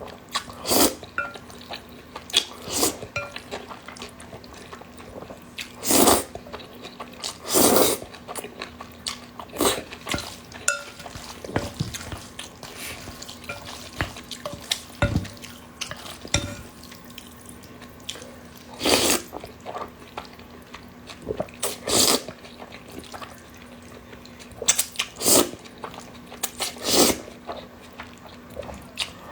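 Close-miked eating of hot dry noodles (alkaline wheat noodles): irregular wet slurps and mouth smacks every second or two, some much louder than others.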